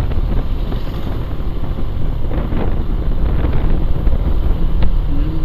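Wind buffeting the microphone of a moving motorcycle, a steady low rumble of wind, engine and road noise.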